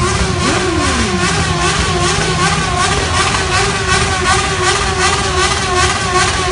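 Motorcycle engines revving over and over, their pitch rising and falling repeatedly, with one engine sweeping up and back down in pitch about a second in.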